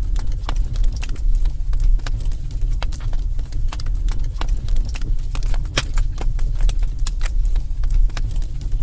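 Wood fire in a fireplace, crackling and popping irregularly over a steady low rumble of the flames.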